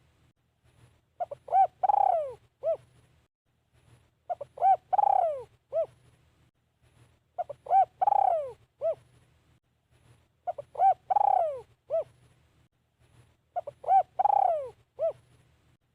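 Spotted dove cooing, repeating the same phrase five times, about one every three seconds. Each phrase is a few short coos, then a long falling coo and one short closing coo.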